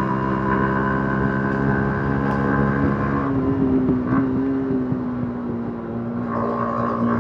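Yamaha MT-15's 155 cc single-cylinder engine running on stock exhaust while riding, a steady drone that shifts in pitch about three seconds in, eases off and quietens, then picks back up near the end.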